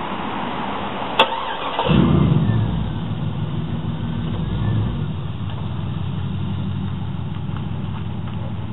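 2004 Pontiac GTO's LS1 V8 with long-tube headers, no catalytic converters and straight pipes being started: a click, then the engine catches about two seconds in with a loud burst and a fast cold-start idle, settling after a few seconds into a steady, loud idle.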